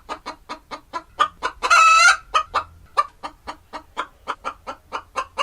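Hen clucking in a quick run of short clucks, about four to five a second, broken by one longer, louder squawk about two seconds in.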